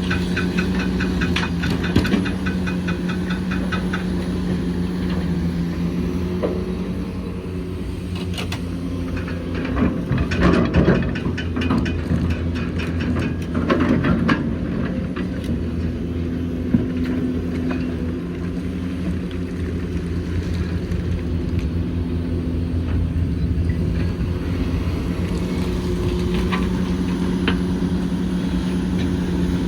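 Hitachi Zaxis 490LCH excavator's diesel engine running steadily under load while it works loading trucks. Louder stretches of clatter and knocking come about ten and fourteen seconds in.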